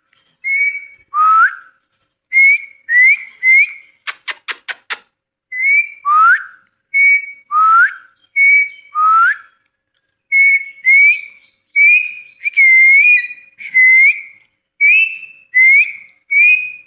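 Ringneck parrot whistling a long string of short, shrill notes, about one to two a second, several of them upward glides. About four seconds in comes a quick run of five sharp clicks.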